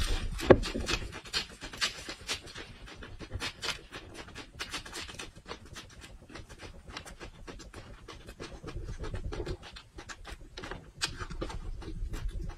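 Close-up chewing of raw red chili peppers and green onion stalks: a rapid run of crisp, wet crunches, loudest in the first few seconds.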